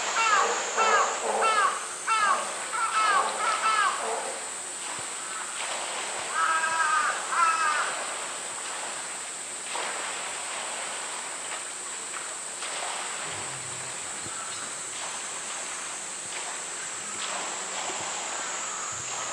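A bird giving a quick series of harsh falling calls, about two a second, for the first four seconds, and a second short run about six seconds in, over a steady high-pitched tone.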